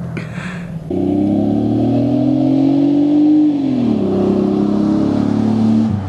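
V6 Pontiac Grand Am with a straight-piped exhaust, loud under hard acceleration. It comes on strongly about a second in and climbs in pitch for a couple of seconds. The pitch then falls back and holds steady until the sound drops away near the end.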